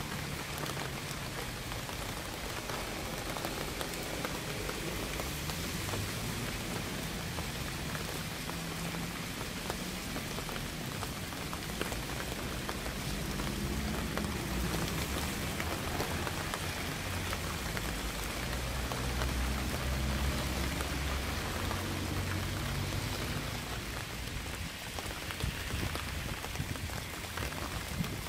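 Steady rain falling, a continuous hiss dotted with countless separate drop ticks. A low rumble swells in the middle and fades again near the end.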